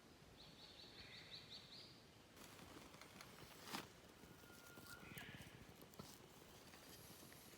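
Quiet outdoor stillness with faint, quick high chirps of a small bird near the start and again about five seconds in, and a sharp click or knock a little under four seconds in.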